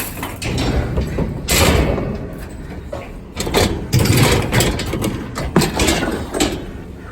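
Scrap metal clattering and scraping in repeated bursts, over a vehicle engine running steadily.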